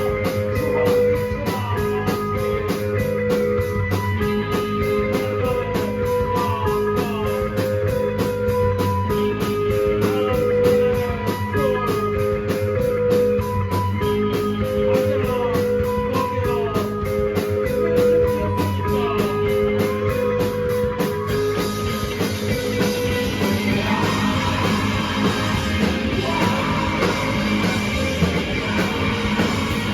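Live rock band playing loud: a repeating two-note guitar figure over a fast, steady drum beat. About two-thirds of the way through, the band swells into a denser, noisier wall of sound.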